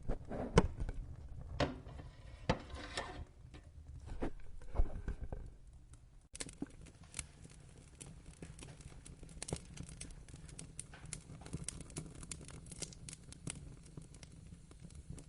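Wood fire crackling: irregular snaps and pops over a steady low rumble of burning. A few louder pops come in the first five seconds, then the crackle turns lighter and busier after a sudden change about six seconds in.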